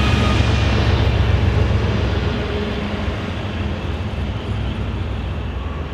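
Passenger train running along the station track: a steady low rumble that slowly fades.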